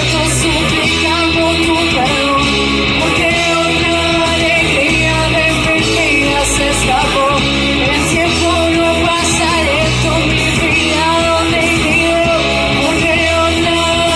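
Rock band playing live, with a singer over electric guitars, steady and loud.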